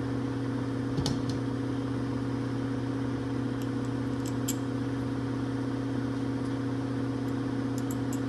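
Steady low hum throughout, with a few faint light clicks of small metal parts being handled, about a second in, around four and a half seconds, and near the end.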